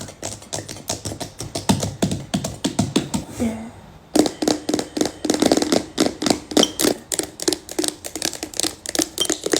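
Rapid fingernail tapping on a container, with long manicured nails clicking many times a second. About four seconds in, the taps land on a more resonant surface and each one rings with a low tone.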